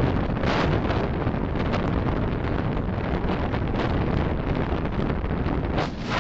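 Steady rushing road and wind noise of a car driving, picked up by a dashcam microphone, swelling a little now and then.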